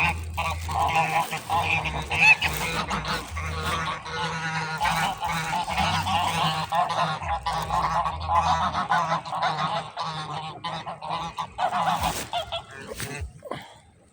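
A crowd of waterfowl calling at once: many overlapping calls from the flock jostling for bread, thinning out near the end.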